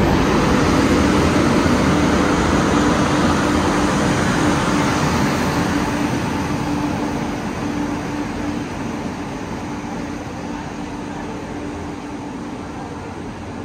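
A train running past: a steady noise with a low hum that fades gradually as the train draws away.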